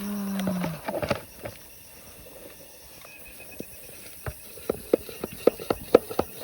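A short voiced exclamation at the start, then a fast run of sharp knocks, about four a second, beginning about four seconds in.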